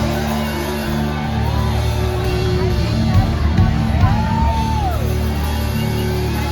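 Live rock band of drums, bass, guitar and keyboards holding a sustained chord with drum hits, while audience members whoop and yell over it.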